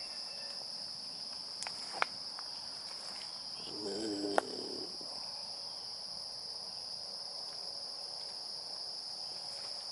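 Crickets chirring steadily: one continuous high-pitched drone, with a couple of faint clicks.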